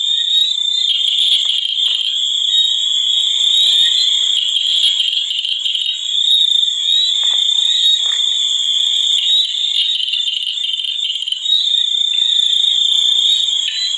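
A dense chorus of calling frogs: a steady, high-pitched trilling that goes on without a break.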